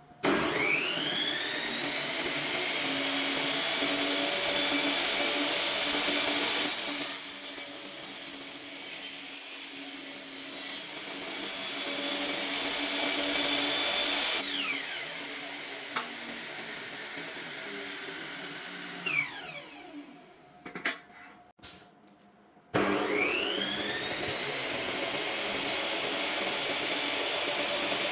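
Electric power tool motor spinning up to speed and running, then winding down about three quarters of the way through, and starting up again a second or so later.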